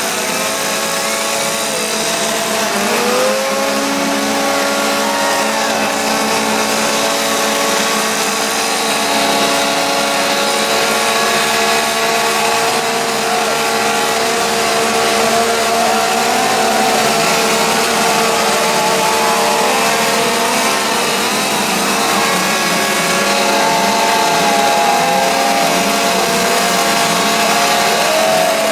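Engines running steadily and loudly, with several held tones and pitches that rise and fall now and then, like engines being revved.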